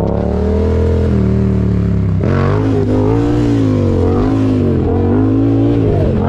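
Motorcycle engine running loud and being revved. Its pitch climbs gently at first, then from about two seconds in swings up and down repeatedly as the throttle is worked.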